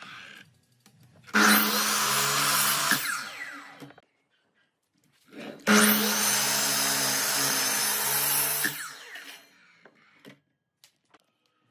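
Small electric power tool motor run twice, for about two seconds and then about three seconds, each time winding down after it is switched off.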